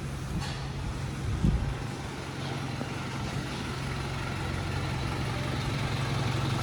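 A truck engine idling with a steady low hum, slowly growing louder, and a single low thump about one and a half seconds in.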